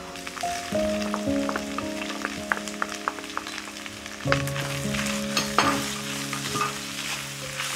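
Beef mince sizzling in a frying pan as its liquid cooks off, with a wooden spoon stirring and clicking against the pan now and then. Background music with held notes plays underneath.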